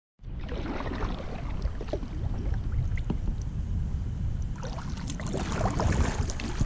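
Wind buffeting the microphone in a steady low rumble, starting suddenly, with water splashing and small knocks from a kayak under way on the river.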